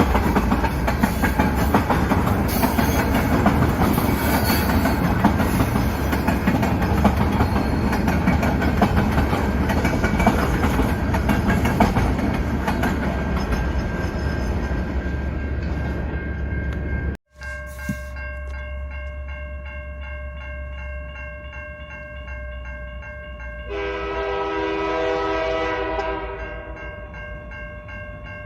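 A freight train passing close by with a steady heavy rumble and wheel clatter. After an abrupt cut about two-thirds of the way in, a quieter steady locomotive hum with fixed tones follows, and near the end the locomotive horn sounds once for about two and a half seconds.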